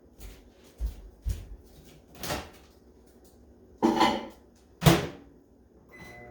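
Microwave oven being shut and set: several knocks, the loudest two about four and five seconds in, then a short beep near the end as the oven starts running with a steady hum.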